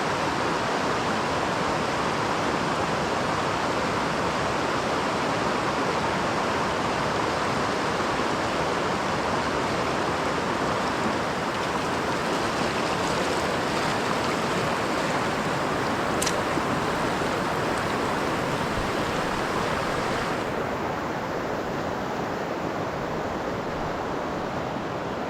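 Steady rushing of moving water, an even hiss with no pitch to it, with one faint click about two-thirds of the way through.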